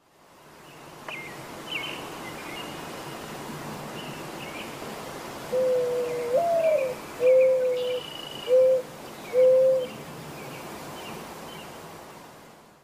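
Birds calling over a steady outdoor hiss: short high chirps throughout, and about halfway in a louder low call of four notes, the first rising then falling, the other three steady and shorter.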